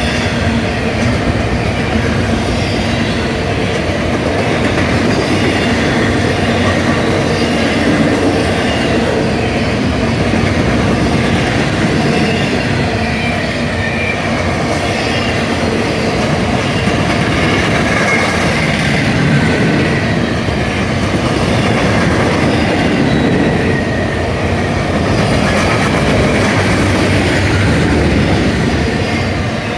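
Railroad cars of a passing train rolling by, a steady loud noise of steel wheels on rail with faint wavering high-pitched wheel squeal.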